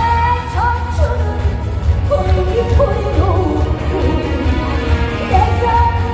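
A woman singing a Korean trot song live with band accompaniment and a pulsing bass; her voice slides and bends between held notes.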